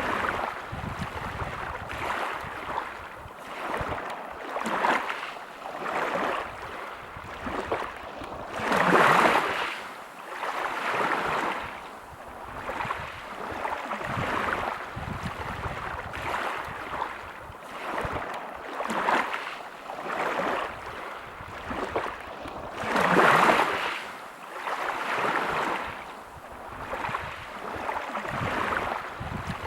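Waves washing onto a pebble beach, the surf swelling and falling back every second or two. Two bigger waves break much louder, about a third of the way in and again about three quarters of the way through.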